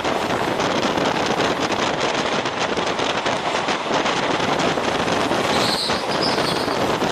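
Running noise of a passenger train in motion, heard from on board: a steady rush of wheels on rails mixed with wind on the microphone.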